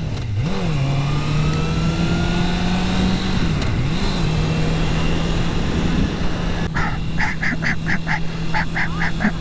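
Suzuki GSX-R600's inline-four engine running at a steady cruising note with wind rush across the microphone, its pitch dipping briefly just after the start and again about four seconds in. About three seconds before the end, a rapid run of short honk-like pulses, roughly three a second, sounds over it.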